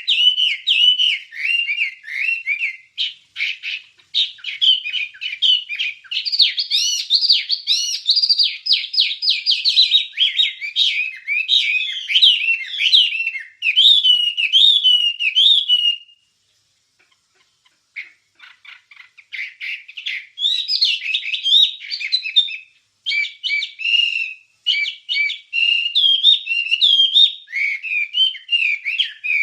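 Wambie songbird singing a fast, continuous chattering song of high chirps and trills, with a pause of about two seconds midway.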